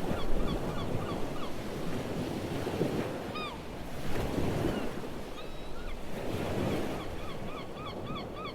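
Ocean waves washing in and receding in slow swells. A bird calls in quick runs of short repeated notes, about four a second, near the start and again through the second half.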